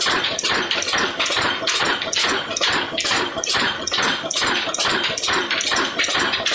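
Old Ruston & Hornsby diesel engine running at a slow, even pace, its exhaust beating steadily about three times a second.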